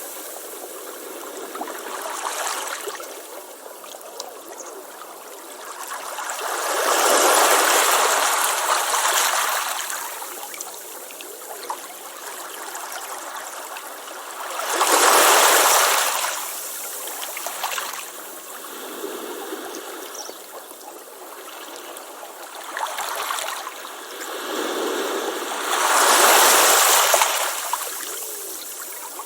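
Ocean waves breaking on a beach: three louder surges of surf several seconds long, each fading back into a softer continuous wash.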